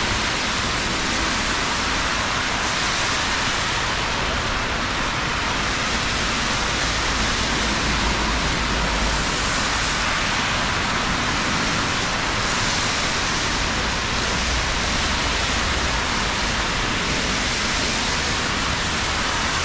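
Steady hiss of rain falling, with a low rumble underneath that swells a little now and then.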